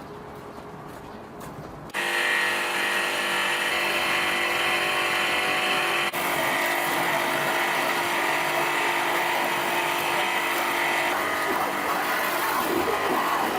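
A motor running steadily, starting abruptly about two seconds in, with a brief drop about six seconds in.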